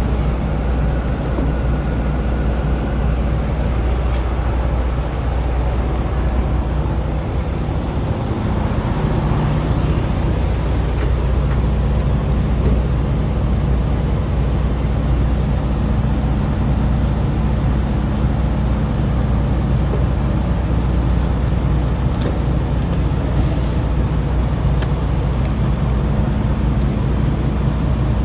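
Box truck's engine running steadily with a low, even hum, its pitch shifting slightly about a third of the way in; a few faint clicks near the end.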